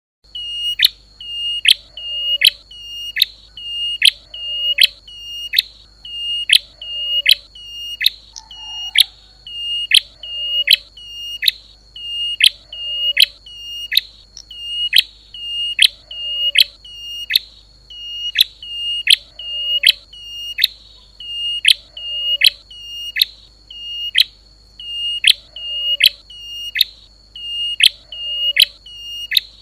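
A songbird repeating one sharp, high call about every 0.8 seconds, each a quick downward sweep ending on a short steady note, over a continuous high-pitched whine.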